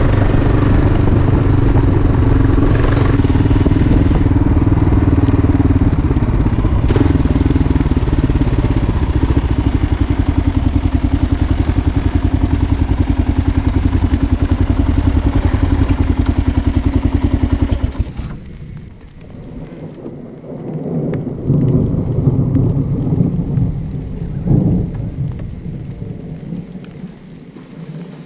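Dual-sport motorcycle engine running under way, then idling steadily with an even pulse, and switched off about 18 seconds in. After it stops, rain falls with a rolling rumble of thunder.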